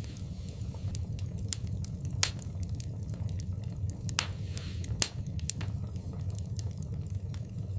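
Wood fire burning in a fireplace: irregular sharp crackles and pops over a steady low roar of the flames, with a louder pop about two seconds in and another about five seconds in, and a brief hiss just after four seconds.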